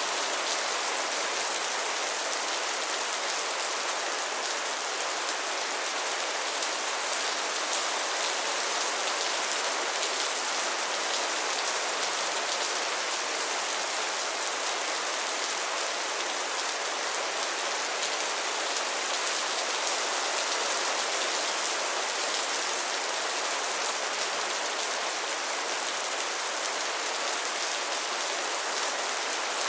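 Steady rain falling, a constant hiss of drops with no let-up or thunder.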